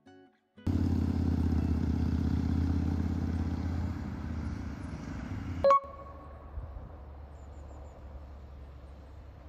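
Vehicle running, a steady engine and road-noise rumble, with a sharp click just before six seconds in, after which the rumble is quieter.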